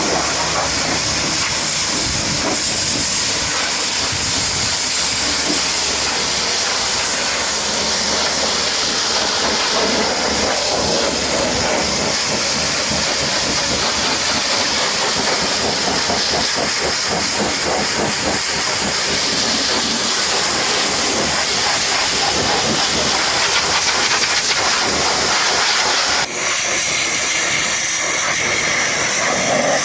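High-pressure washer spraying water, a steady loud hiss; the sound changes abruptly about 26 seconds in.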